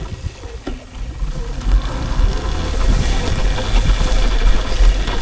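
Ride noise from a moving electric dirt bike: wind rumbling on the microphone and tyres running over a rough dirt road. The rumble starts suddenly and builds louder, with a few faint knocks from bumps.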